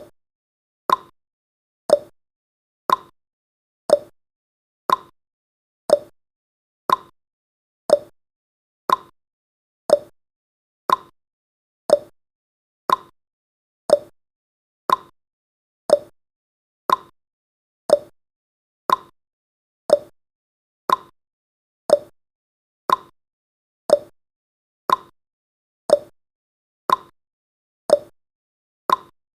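Clock-style tick-tock sound effect of a countdown timer: a short, sharp tick exactly once a second, alternating slightly higher and lower in pitch, with silence between ticks.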